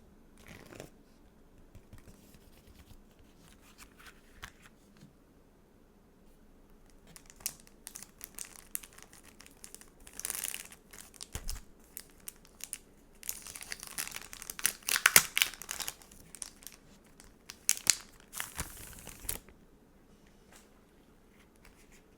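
Sticker packaging being handled by hand: a few light taps and clicks, then several bursts of crinkling in the second half, the loudest a little past the middle.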